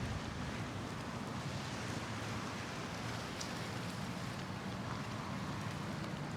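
Steady outdoor background noise: a low rumble under an even hiss, with a couple of faint ticks about three and six seconds in.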